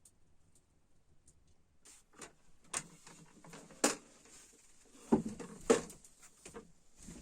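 A run of irregular knocks and clicks over a steady high hiss, both starting about two seconds in, with a few louder knocks in the middle.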